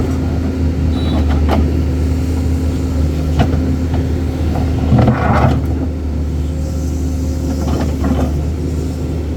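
Crane's engine running steadily at a low pitch, with a few short knocks and clanks over it and one louder clatter about five seconds in.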